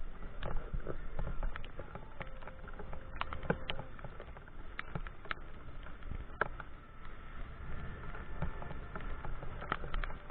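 Raindrops tapping irregularly on the camera over a steady low rumble of wind and riding noise.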